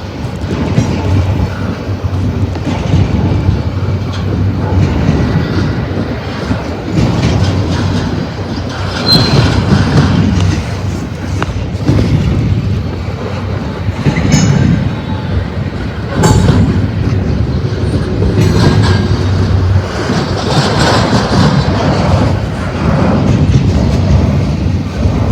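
Double-stack freight train cars rolling past, steel wheels clacking steadily over rail joints, with a couple of brief high wheel squeals.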